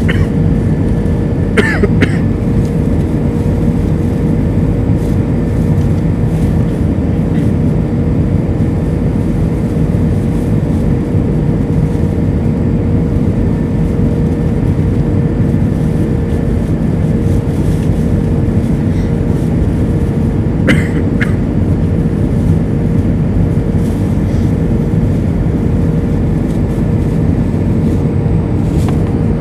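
Airbus A320 cabin noise in flight: a steady loud roar of engines and airflow, with a constant hum running through it. Two brief sharp sounds break in, about two seconds in and again about twenty-one seconds in.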